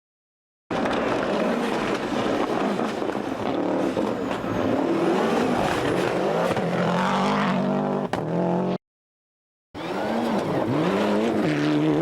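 A 1996 World Rally Championship rally car driven hard: the engine revving up and down through the gears over a haze of tyre and road noise. The sound cuts out to silence at the start and again for about a second near the end, then resumes.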